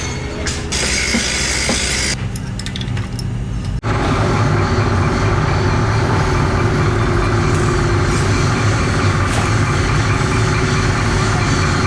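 Workshop machinery running with a steady low mechanical hum and drone; the sound changes abruptly about two seconds in and again about four seconds in, then stays steady.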